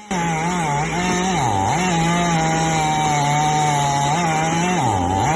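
Chainsaw running at high revs while cutting wood, with a steady high engine note that sags briefly twice and picks back up.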